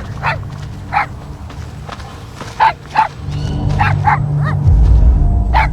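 A dog barking in a series of short, sharp barks and yips, about seven in all, over low, droning background music that swells in the second half.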